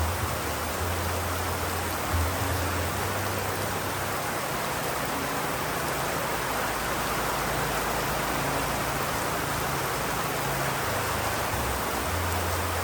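Steady rain, an even hiss of falling drops. Underneath, a low hum comes and goes, strongest in the first couple of seconds and again near the end.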